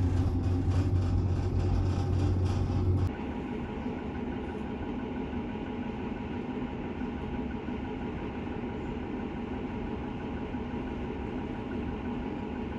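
Cabin sound of a Northern Class 150 diesel multiple unit under way: the underfloor diesel engine runs steadily with a few steady tones over rail noise. A louder low hum with a fine clicking texture cuts off abruptly about three seconds in.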